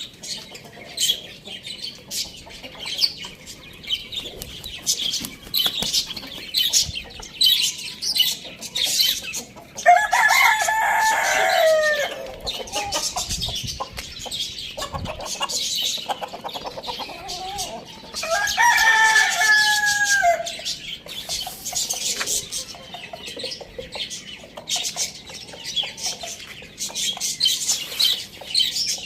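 Rooster crowing twice, once about ten seconds in and again near the twenty-second mark, each crow lasting about two seconds. Between and under the crows, small birds keep up a constant high chirping, with clucking mixed in.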